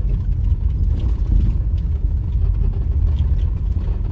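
Steady low rumble of a vehicle travelling along a road, mostly road and running noise with no distinct engine note.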